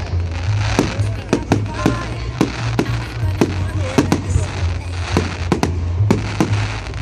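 Fireworks going off in a rapid, irregular string of sharp bangs, about three a second, over music with a steady low bass.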